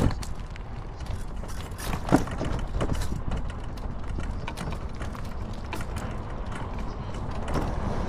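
Irregular mechanical clicking and rattling over a steady low rumble from a small vehicle on the move, while it is turned around.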